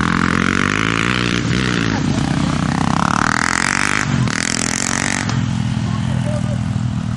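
Honda XR 250 Tornado single-cylinder four-stroke motorcycle engine running hard, its pitch rising and falling repeatedly as it is revved.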